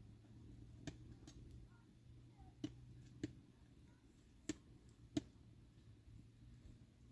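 Near silence with a low steady hum, broken by about five short, sharp clicks spread unevenly over several seconds.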